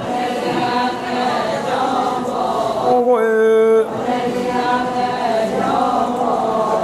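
Group of voices chanting a Ponung chorus response in unison, the traditional Adi call-and-response dance song. About three seconds in, a single loud voice holds one note briefly over them.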